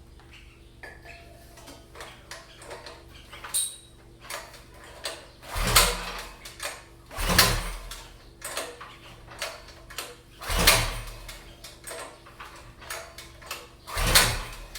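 Predator 212cc single-cylinder engine cranked four times on its recoil pull-starter, each pull a short whirr that doesn't catch, with small clicks and knocks between pulls. Cranking without firing on starting fluid: the engine is not even trying to start.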